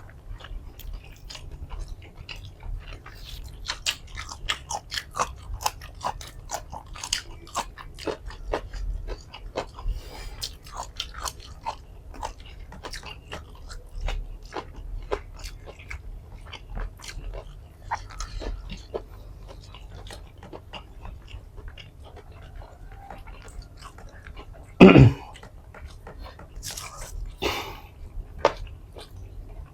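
Close-miked mukbang eating of nasi padang: continual wet chewing and biting with crisp crunching clicks. One brief louder sound comes a few seconds before the end.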